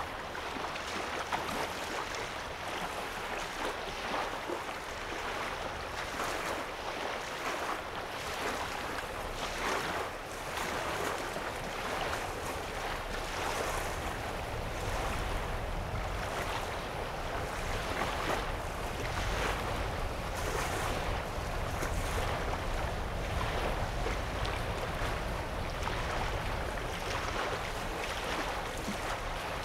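Small waves lapping on a lake shoreline: a steady wash with soft, irregular splashes about every second. A low rumble comes in about halfway.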